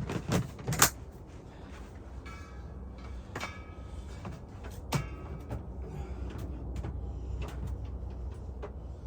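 Several sharp knocks in the first second and another about five seconds in, from gear being handled, with a brief squeak or creak between them. A steady low rumble runs underneath.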